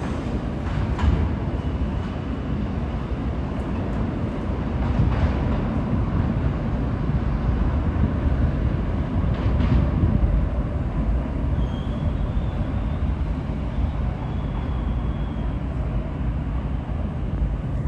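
R62 subway train running on the rails as it pulls out of the station: a steady rumble of wheels on track, with a few sharp clanks along the way.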